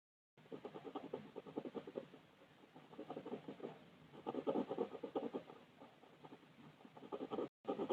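Colouring on paper: rapid back-and-forth shading strokes in several bursts with short pauses between them. The sound cuts out completely for a moment at the start and again just before the end.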